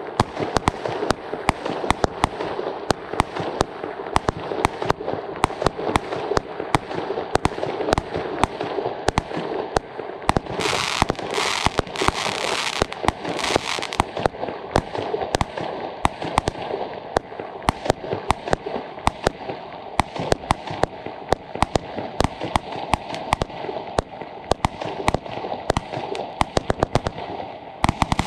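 Weco 'Restart' consumer fireworks battery (small-calibre multi-shot cake) firing: a rapid, uneven run of launch bangs and star bursts, with two loud hissing stretches about eleven to fourteen seconds in.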